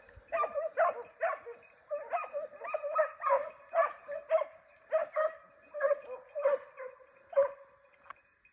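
Segugio Italiano scent hound baying in a steady run of barks, about two a second, stopping near the end: a hound giving tongue on a hare's trail.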